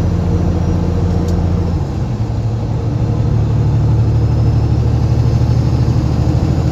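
Semi truck's diesel engine running under way, heard from inside the cab. About two seconds in, the engine note dips and shifts, then carries on a little louder at a new pitch.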